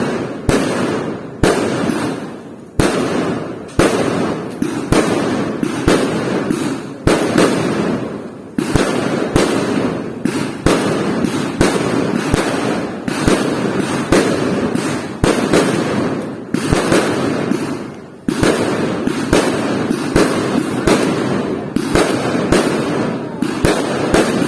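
A barrage of fireworks going off with almost no pause: sharp bangs about every second, each one trailing off into crackling and echo before the next.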